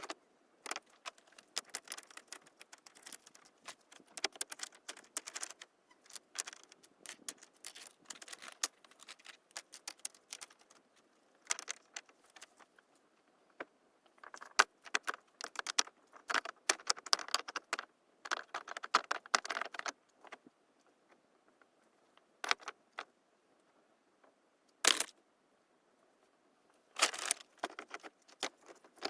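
Irregular clicking and clattering of small hard objects, coming in clusters with short pauses and a few sharper snaps.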